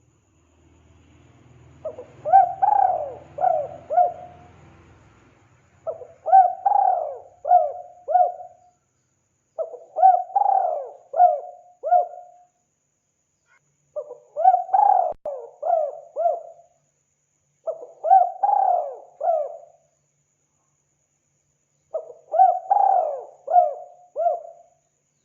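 Spotted dove (tekukur) cooing: six repeated phrases of several quick notes each, one roughly every four seconds.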